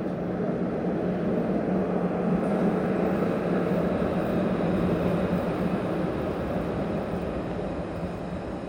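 Alstom Citadis 302 tram running, a rail-vehicle noise with a steady low hum that grows louder toward the middle and then slowly fades.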